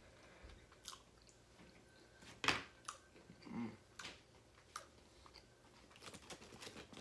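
Close-miked chewing and crunching of fried chicken tenders and fries, with small wet mouth clicks and one louder crunch about two and a half seconds in. A brief low hum follows, and near the end comes a flurry of small clicks and rustles.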